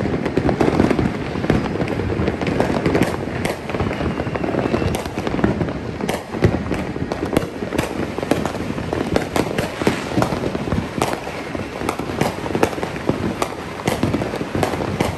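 Many fireworks going off at once: a dense, unbroken crackle and popping with frequent sharper bangs, as aerial fireworks burst overhead.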